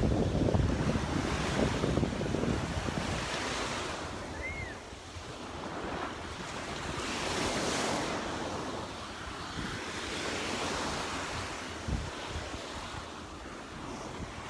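Gulf surf breaking and washing up the sand, rising and falling in swells, with wind buffeting the microphone, heaviest in the first few seconds.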